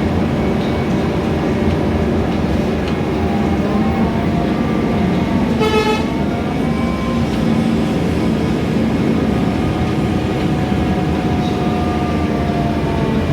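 Scania K320iA CNG city bus underway, heard from inside the cabin: a steady engine and drivetrain hum whose pitch rises and falls with road speed. A short horn toot sounds about halfway through.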